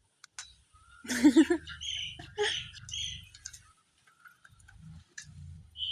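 A dog's high-pitched whines and yelps: a loud cry about a second in, then a run of short squeaky calls, and one more brief call near the end.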